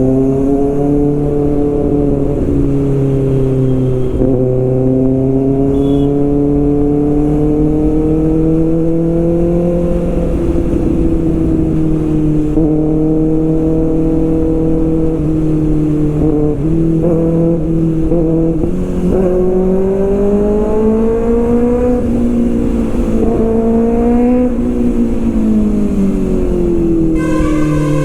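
Kawasaki ZX-6R's inline-four engine and exhaust under way, its note slowly rising and falling with the throttle, with a few sudden steps in pitch, and dropping away near the end as the bike slows. Low wind rumble sits underneath.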